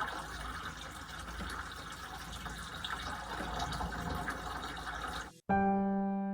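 Water running steadily, cut off suddenly about five seconds in; a few piano notes follow near the end.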